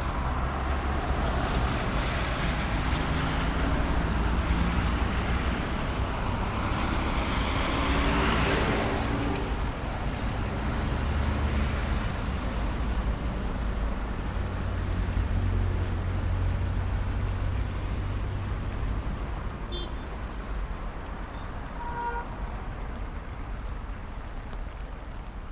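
City street traffic on a rain-wet road: cars passing with tyre hiss and low engine hum, loudest in the first ten seconds, then quieter and easing off toward the end.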